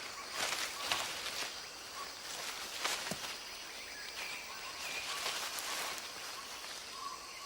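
Tropical rainforest ambience: a steady hiss of insects and birds, with a few short faint calls and a single click about three seconds in.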